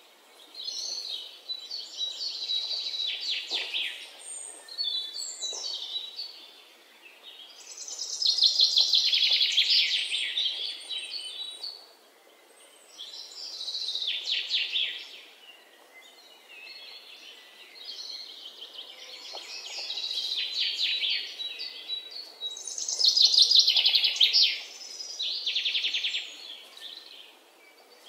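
Birds singing: a run of high, fast trilled phrases, each a few seconds long, with short pauses between them.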